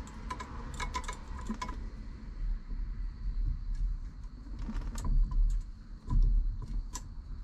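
Light clicks and rattles of small parts being handled during a steering wheel install, most of them in the first second and a half, with a couple of dull knocks about five and six seconds in.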